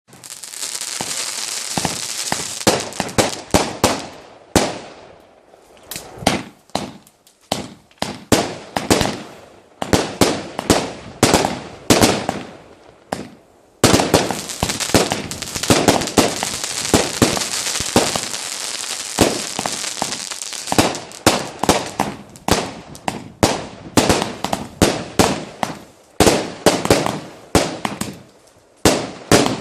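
A 100-shot firework barrage firing: a hissing, crackling stream of shots punctuated by sharp bangs several times a second, with short lulls between volleys.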